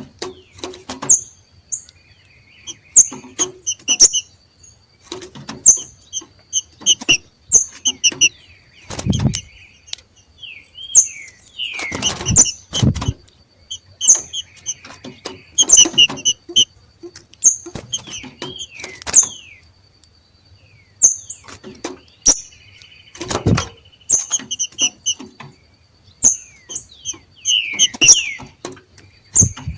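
Green-winged saltators (trinca-ferro) giving their 'macheado' calls: short, sharp, high notes repeated about once a second in quick clusters. A few louder thumps break in near 9, 12 to 13 and 23 seconds in, and a faint steady high whine runs behind.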